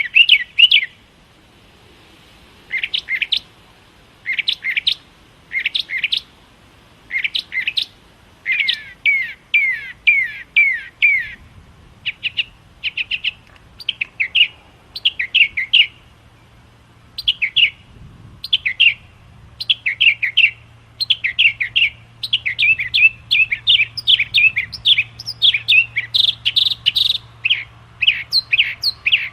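Small songbirds chirping in quick clusters of short, high chirps, with brief pauses between bursts and busier, near-continuous chirping toward the end.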